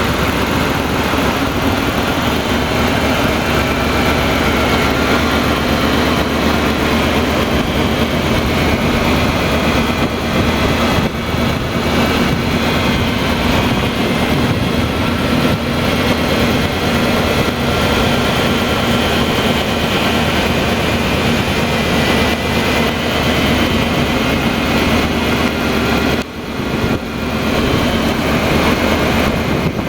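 1999 Ford Ranger's 3.0L Vulcan V6 engine running steadily at idle, with a brief dip in loudness near the end.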